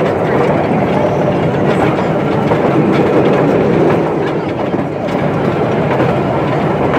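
Open passenger car of a small park train rolling along the track: a steady rumble of wheels on rail with irregular clicking.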